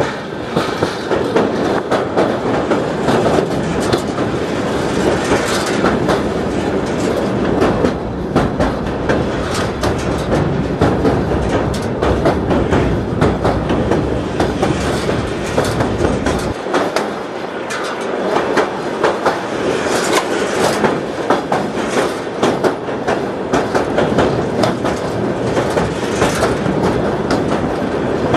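Passenger train running at speed, heard from on board as it crosses a railway bridge over a river: a steady rolling rumble with wheels clicking over rail joints. The deep rumble falls away a little past halfway.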